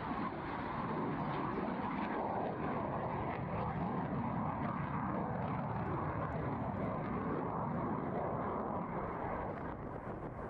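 Greek F-4 Phantom II's two J79 turbojet engines running on a display pass: a steady, heavy rushing jet noise that eases slightly near the end.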